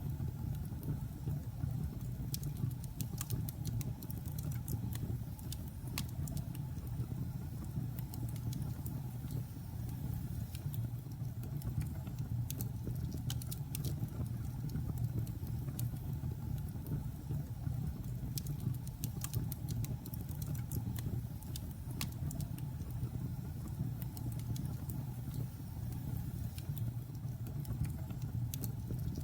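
Wood logs burning in a fireplace: many scattered sharp crackles and pops over a steady low rumble of the fire.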